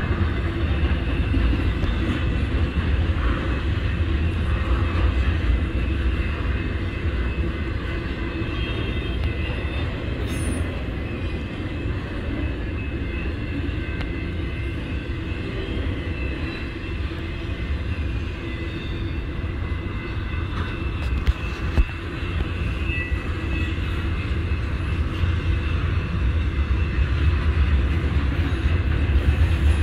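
Cars of a BNSF intermodal freight train rolling past, trailer-carrying flatcars on steel wheels: a steady deep rumble of wheels on rail with faint high squeals. Two sharp clicks come about two-thirds of the way through.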